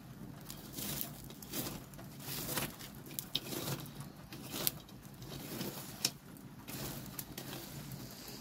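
Wood fire crackling and popping under a red-hot sheet-iron griddle, with irregular sharp knocks and short scraping bursts. The sharpest knocks come a little before five seconds in and at about six seconds.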